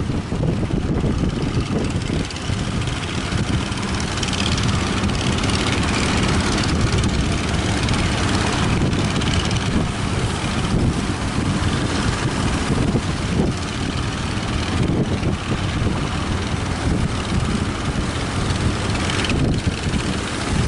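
A fishing boat's engine running steadily under heavy wind buffeting the microphone, with the rush of wind and waves.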